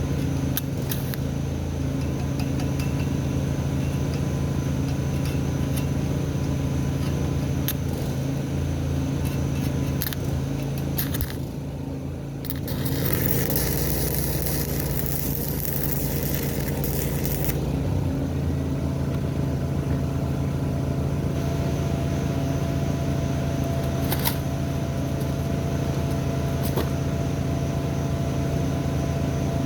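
Arc welder buzzing and crackling while tacking steel, with a brief break about twelve seconds in and a hissier stretch just after.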